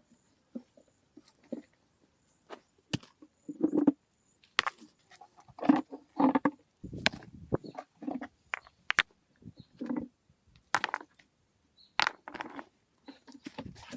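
Irregular knocks, taps and short scraping strokes of hands-on building work, a dozen or so separate impacts spread unevenly with gaps between them.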